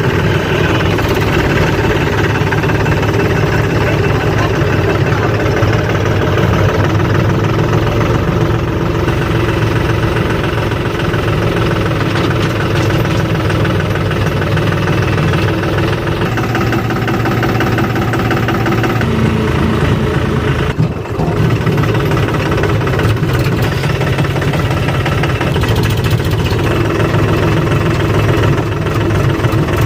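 Powertrac tractor's diesel engine running steadily, with a brief dip in loudness about two-thirds of the way through.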